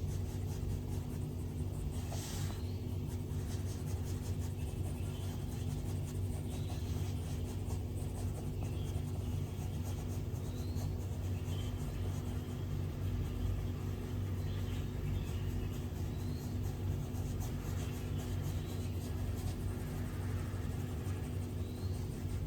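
Stylus strokes and light taps on an iPad screen, faint and scattered every second or two, over a steady low hum.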